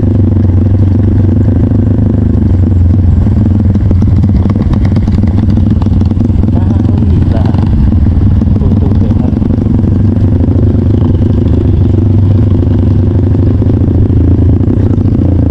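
Trail motorcycle engine running steadily as the bike rides along, with a few short knocks.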